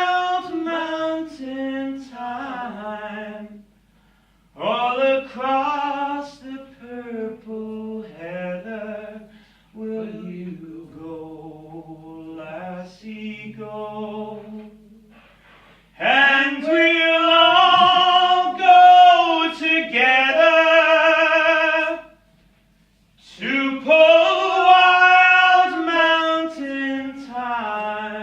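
Unaccompanied singing: sung phrases with vibrato separated by short breaths, the last two phrases the loudest.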